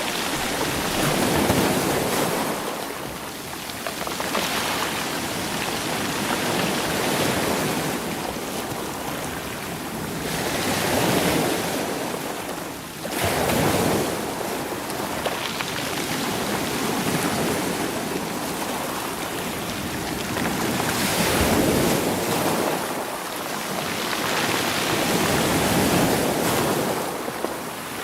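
Sea waves surging onto a rocky shore and rolling the stones, in a steady rush that swells with each wave every few seconds.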